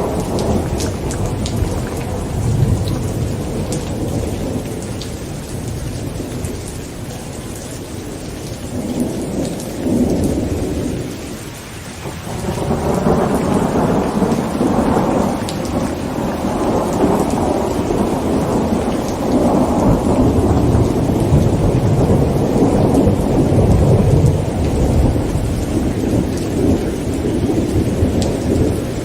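Heavy rain falling on a tent with rolling thunder. One long rumble fades away about eleven seconds in, then another builds and keeps rolling, with scattered raindrop ticks throughout.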